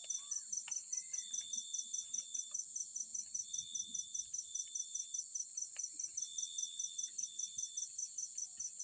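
A chorus of insects chirping: a fast, even pulsing over a continuous high buzz, with a second, lower trill that starts and stops every second or so.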